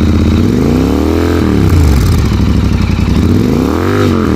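Royal Enfield Interceptor 650 parallel-twin running through an aftermarket Gursewak exhaust, idling and blipped twice: the revs rise and fall back about a second in and again near the end.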